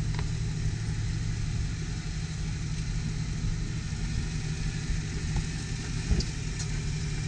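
Jeep Wrangler engine running at a low, steady idle as the Jeep crawls slowly down a rock obstacle, with a single knock about six seconds in.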